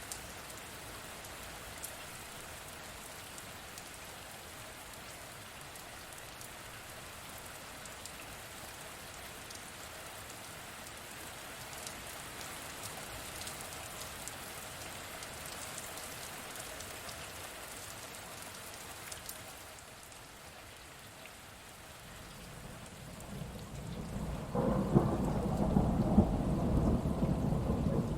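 Steady rain with scattered individual drops, then a rumble of thunder that builds in the last few seconds and becomes the loudest sound near the end.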